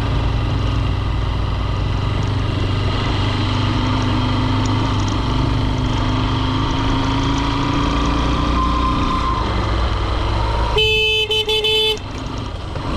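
Honda CRF150L single-cylinder engine running under way with wind and road noise, its pitch slowly rising. About eleven seconds in, a vehicle horn sounds in a few short blasts lasting about a second.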